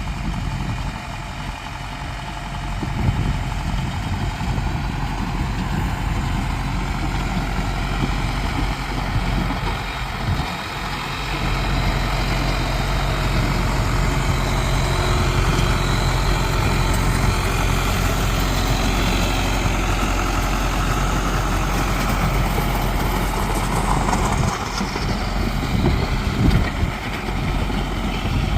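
John Deere 2140 tractor's diesel engine running steadily, getting a little louder about a third of the way in.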